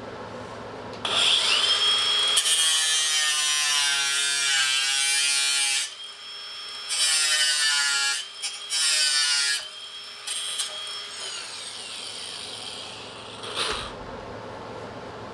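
Cordless electric ratchet whirring in several bursts of a few seconds each, with a high motor whine that rises as it spins up and glides down as it winds down, as fasteners on the stock intercooler piping are run out.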